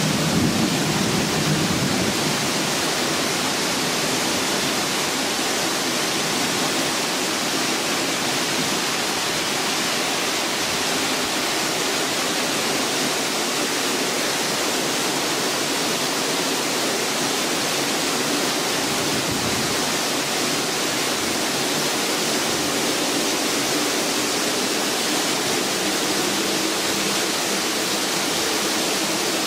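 Heavy rain pouring down in a thunderstorm: a steady, even hiss, with a brief low rumble at the very start.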